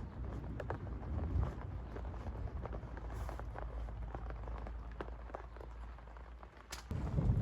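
Heavy rain falling on a surface, a steady hiss with frequent single drops striking sharply. The sound turns suddenly louder near the end.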